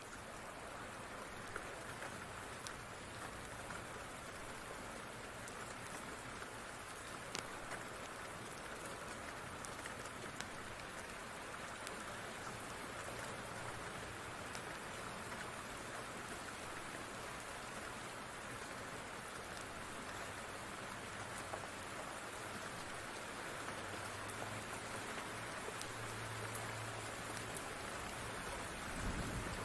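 Steady rain falling, an even hiss with a few faint sharp ticks scattered through it and a low hum that comes and goes in the second half.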